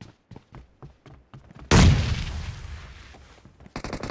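Video game combat sound effects: a few faint scattered clicks, then a single loud explosion a little under halfway through that dies away slowly. Rapid automatic gunfire starts near the end.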